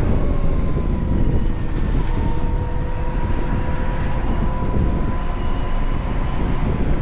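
VMoto Stash electric motorcycle riding through traffic: a steady rumble of wind and road noise, with a thin electric-motor whine whose pitch drifts slowly and falls near the end.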